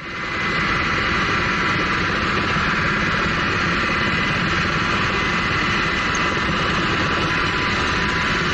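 Steady aircraft engine noise, fading in at the start: a dense rush over a low rumble, with a steady high whine.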